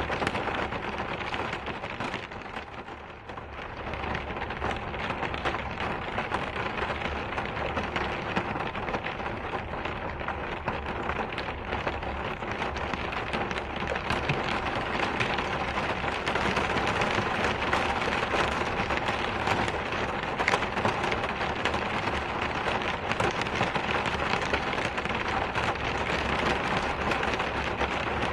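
Steady rain falling, a dense patter of drops on a surface. It eases briefly about three seconds in.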